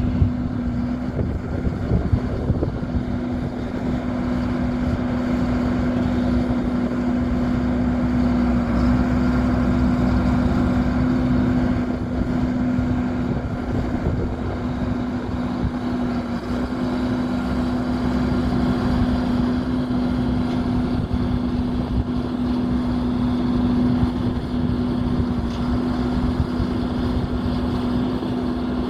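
2003 Sterling Acterra crane truck's diesel engine running steadily, with a constant hum over a low rumble.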